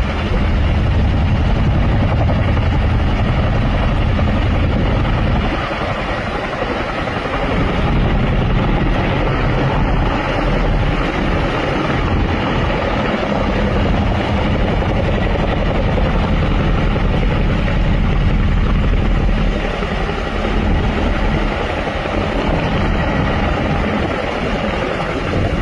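HAL Chetak (Alouette III) helicopter running: its rotor and turbine make a steady low beating over a broad rushing noise. The low beating eases briefly about six seconds in, then returns.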